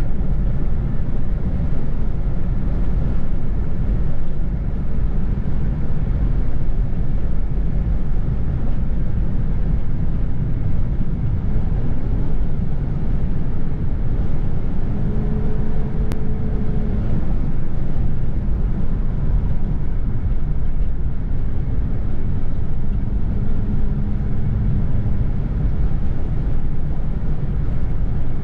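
Steady low road and engine rumble inside a moving car. A faint held tone comes in briefly twice.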